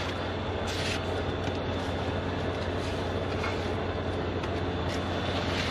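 Heavy diesel engine idling steadily, with a brief scraping rub about a second in as mud is wiped off.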